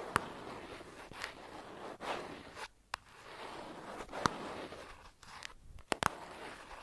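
Close-miked ASMR spa trigger sounds: a run of soft swishing strokes, roughly one a second, broken by sharp clicks, with the loudest near the start and a double click about six seconds in.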